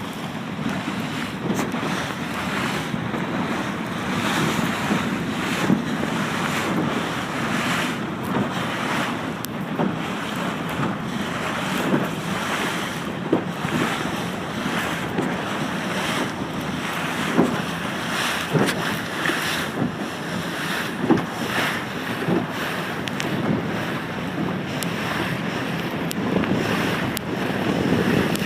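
Strong wind buffeting the microphone over water rushing and splashing along a sailing dinghy's hull as it reaches in a strong breeze, with a few sharp slaps of waves against the boat.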